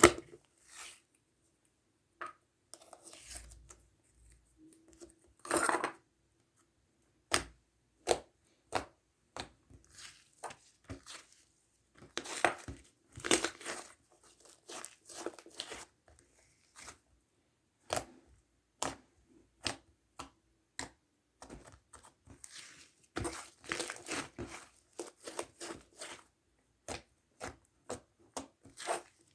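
Hands playing with a sherbet-textured slime: irregular clicks, crackles and sticky tearing sounds as it is pressed and pulled, with a few longer crackly stretches.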